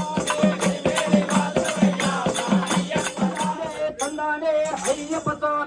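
Devotional bhajan singing with a steady beat of drum strokes and jingling cymbals, about three beats a second. Near the end the percussion stops for about a second and a half while the voices carry on, then it comes back.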